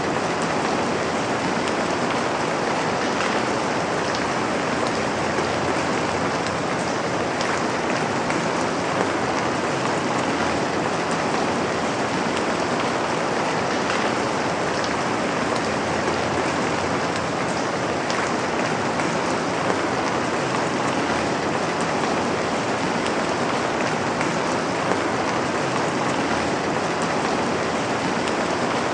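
Steady rain, a dense even hiss of drops falling on a surface, with scattered individual drops ticking through it.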